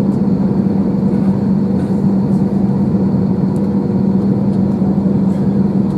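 Steady drone heard inside an Airbus A321's cabin while the aircraft is on the ground, with one strong low hum running unchanged underneath.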